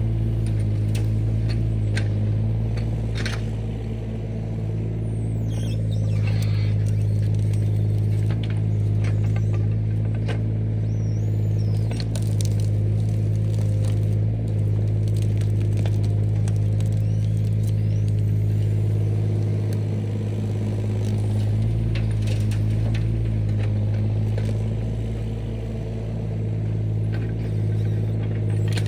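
Diesel engine of heavy land-clearing equipment running at steady, high revs, with scattered clicks, scrapes and cracks as the machine works.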